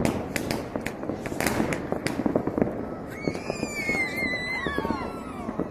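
New Year fireworks and firecrackers going off in many sharp cracks and pops over a continuous low rumble. From about halfway, a high whistle glides slowly down in pitch for a couple of seconds.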